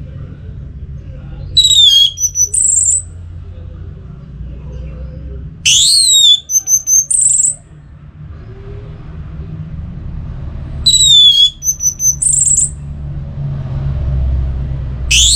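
Orange-headed thrush singing the same short phrase three times, a few seconds apart. Each phrase is a sweeping whistled note followed by a quick run of short high notes. A steady low rumble runs underneath.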